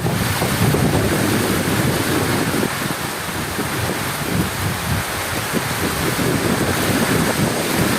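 Heavy rain pouring steadily, with a low rolling rumble of thunder that eases a little about three seconds in.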